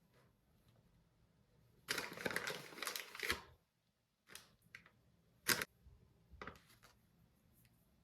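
Kitchen handling noises: about a second and a half of busy rustling, then after a brief gap a few separate clicks and knocks, the sharpest about halfway through.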